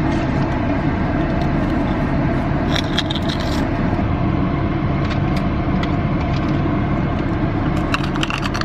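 Strong wind gusting, a steady low rumble, with a few light clicks and rattles about three seconds in and again near the end.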